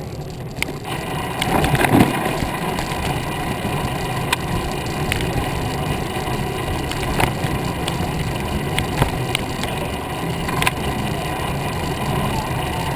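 Riding noise from a cruiser bicycle rolling along: a steady rush of tyre and wind noise with scattered clicks and rattles, and a louder swell about two seconds in.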